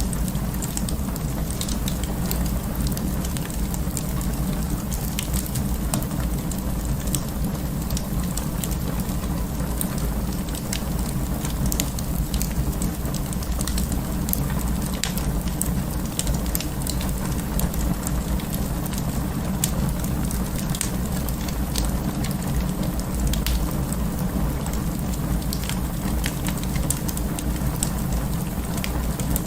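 Wood fire in an open fireplace crackling, with many small sharp pops at irregular moments over a steady low rumble of the flames.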